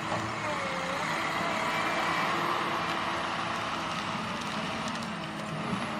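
John Deere 1270G forestry harvester working: a steady diesel engine hum, with a faint whine that wavers slightly in pitch.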